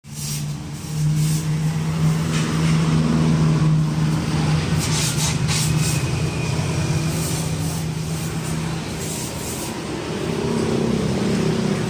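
Toyota Avanza engine idling steadily through an aftermarket HKS racing exhaust, with a few light clicks about five seconds in.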